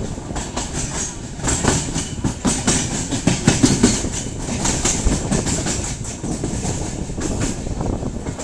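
Indian Railways train running, its wheels clattering over rail joints above a steady low rumble. The clatter is densest through the middle.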